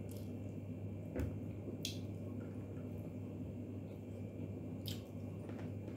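Wet chewing and lip smacks of a person eating, with a few short sharp clicks, about a second in, near two seconds and near five seconds, over a steady low hum.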